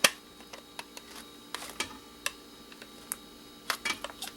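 Scattered sharp clicks and light knocks of small plastic and metal parts being handled, about a dozen at irregular spacing, with the loudest right at the start. A faint steady hum sits under them.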